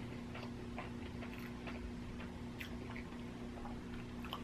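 A person chewing a mouthful of chicken sandwich with the mouth closed: faint, irregularly spaced wet clicks over a steady low hum.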